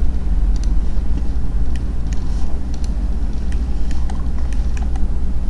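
Steady low rumble and hum, with faint scattered clicks.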